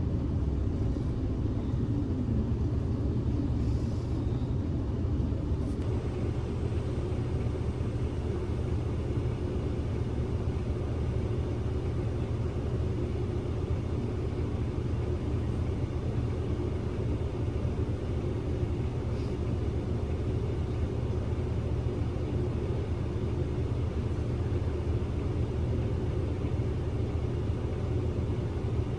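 Steady low rumble of a Kyoto City bus heard from inside the cabin: engine hum and running noise, with no change in level.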